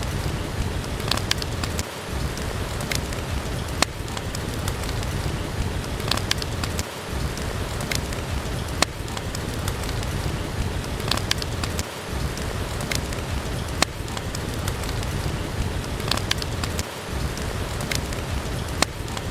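Steady rain with fireplace crackles: sharp pops and snaps scattered over the rain's hiss, the whole sound repeating about every five seconds as a loop.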